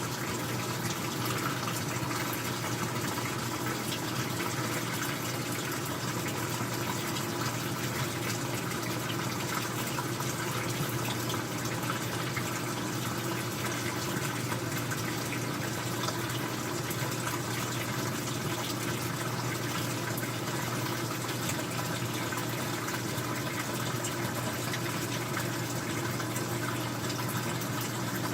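Old-style front-loading washing machine with water rushing steadily through it and a constant low hum underneath.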